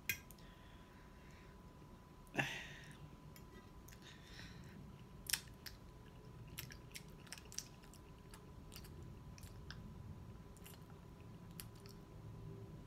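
A person quietly chewing a mouthful of mushy potato salad, with scattered light clicks and one louder knock about two seconds in.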